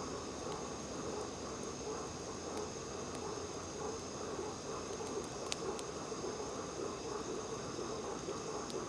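Night chorus of frogs and insects calling steadily, with a few sharp pops from a crackling campfire, the loudest about five and a half seconds in.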